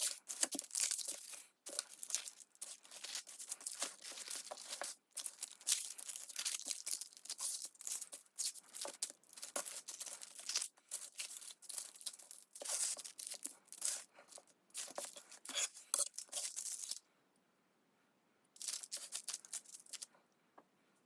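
Offset spatula scraping and spreading a thin layer of sourdough discard cracker dough across a parchment-lined baking sheet, the parchment crinkling under it. The strokes come in an irregular run of scrapes, break off briefly near the end, resume, then stop.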